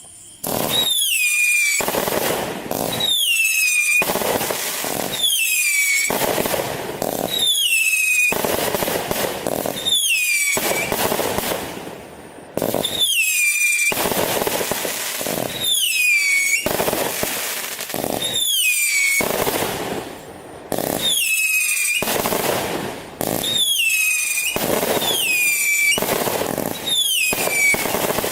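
Trueno firework going off: a falling whistle about every second and a quarter, each followed by a dense hissing crackle, repeating steadily.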